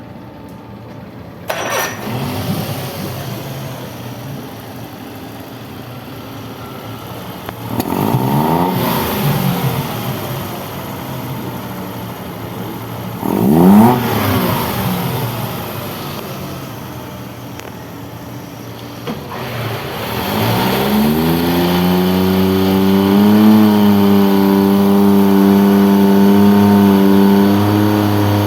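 Suzuki DF30 four-stroke three-cylinder outboard motor running, revved up and back down twice, then brought up to a higher steady speed and held there from about two-thirds of the way in.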